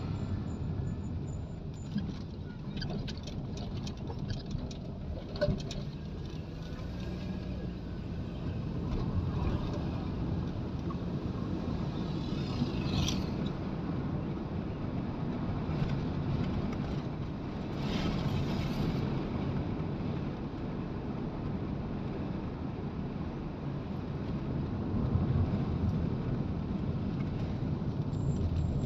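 Steady low rumble of a moving road vehicle, engine and road noise, with a few faint clicks and two brief hissing swells.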